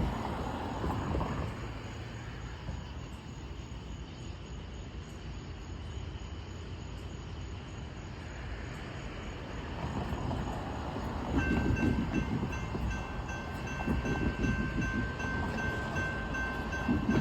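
Freight train approaching with a low rumble that grows louder. About eleven seconds in, a grade-crossing warning bell starts ringing in quick, even strokes.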